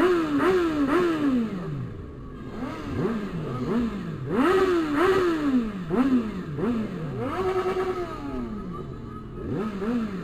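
Motorcycle engine revved in repeated throttle blips: the pitch jumps up quickly and sinks back, several times in a row, with one rev held briefly before falling away near the end.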